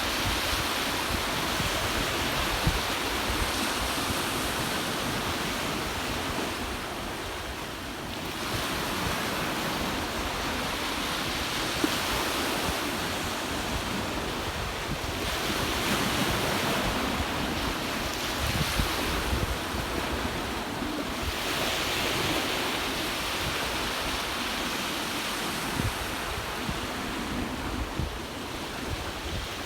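Sea waves roaring onto a beach, each surge swelling and ebbing every six or seven seconds, with wind rumbling on the microphone.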